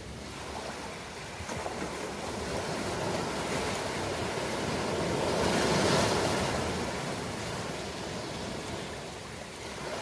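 Ocean waves breaking on a shore: a wash of surf that builds over a few seconds, crests about six seconds in, and then draws back.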